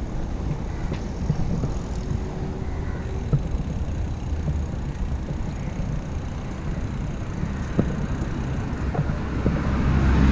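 Road noise heard from a moving bicycle: motor traffic with a low rumble that swells and fades, wind noise, and a few short clicks.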